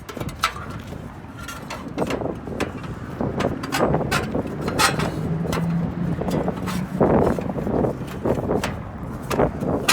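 Irregular clicks and knocks of hands and tools working on equipment, over a low steady hum.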